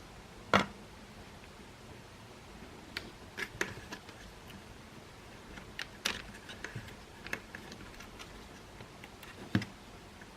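Irregular clicks and knocks of plastic parts and small tools being handled while a Makita CL108FD cordless vacuum is taken apart or reassembled. There is a sharp knock about half a second in, small clusters of clicks a few seconds in and around the middle, and a duller knock near the end.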